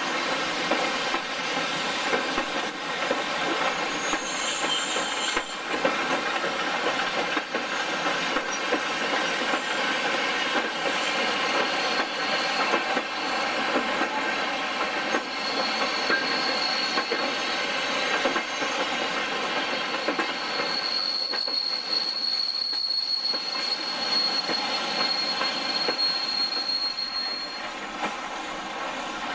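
Train wheels rolling slowly on rails, with scattered clicks. A steady high-pitched wheel squeal sets in about halfway through and holds for about twelve seconds before fading.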